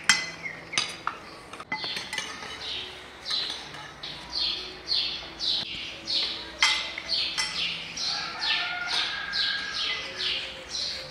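Forks clinking against plates, a few sharp clinks in the first two seconds, then a bird chirping over and over, a short falling note about twice a second.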